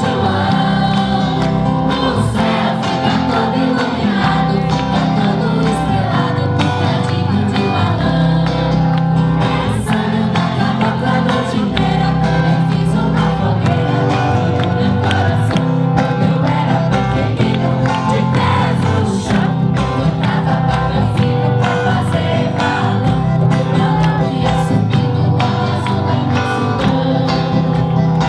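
Group of voices singing a folk song with instrumental accompaniment, its bass notes sustained and played continuously.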